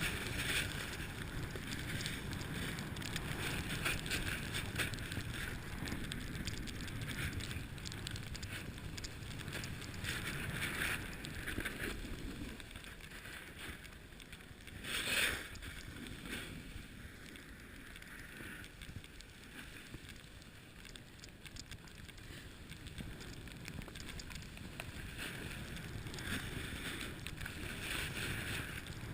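Snowboard sliding down a groomed slope: the board's edge scraping and hissing over the snow in repeated surges as it carves, with wind rushing over the microphone. About halfway through there is one brief, louder burst.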